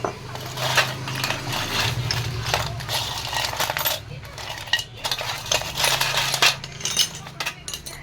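Metal engine parts and hand tools clinking and clattering against each other in repeated short, sharp knocks, over a steady low hum.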